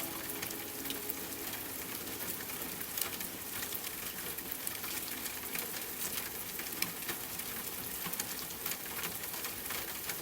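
Steady rain with many small, close drop ticks over an even hiss; a soft held music chord fades away in the first moment.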